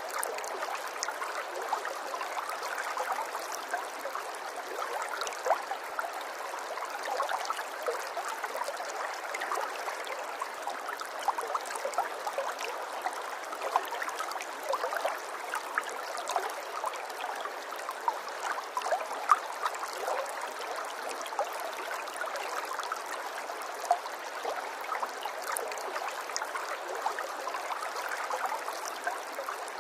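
Flowing water, a small stream or trickle, babbling steadily with many small splashes and gurgles.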